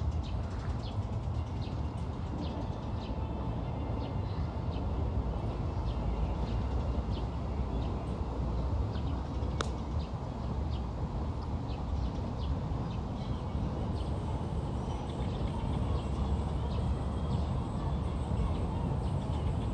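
Small birds chirping again and again in short, high calls over a steady low rumble, with a single sharp click about halfway through.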